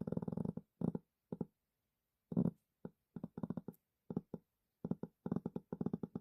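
A dog snoring: a string of short, rattling snores at uneven intervals, some brief and some lasting most of a second.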